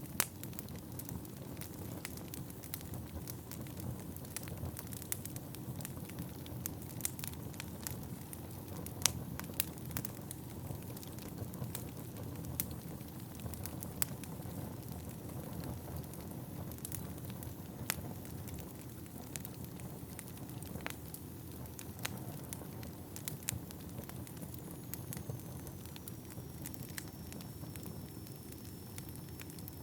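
Wood fire burning in an indoor fireplace: a steady low rush of flame with irregular sharp crackles and pops of the burning logs. A faint high whistle comes in near the end.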